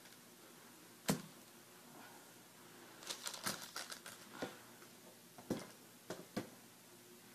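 Light knocks and clicks of objects being handled on a hard surface. There is one sharp knock about a second in, then a quick run of small clicks, and a few more knocks near the end.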